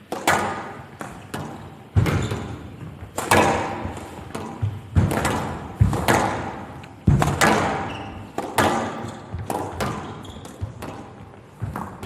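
Squash rally: the ball cracking off rackets and the court walls in quick alternation, sharp hits about once a second, each echoing in a large hall.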